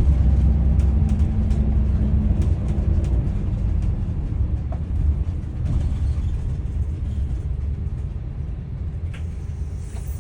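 Daewoo FX116 city bus engine heard from inside the bus: a steady low rumble that slowly gets quieter. A hiss comes in near the end.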